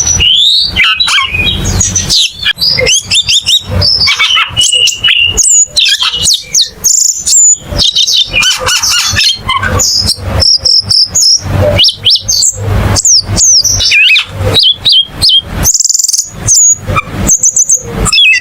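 A cucak keling songbird singing: a fast, unbroken stream of varied chirps, whistles and notes sliding up and down.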